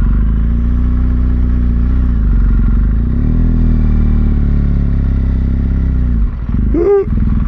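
BMW R1200GS Adventure's flat-twin boxer engine running at low revs with small rises and falls in pitch as the bike is ridden slowly to turn around. The engine note drops briefly near the end.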